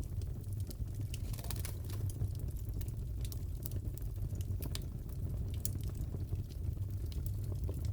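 Crackling fireplace: a steady low rumble of the burning fire with frequent irregular sharp pops and crackles.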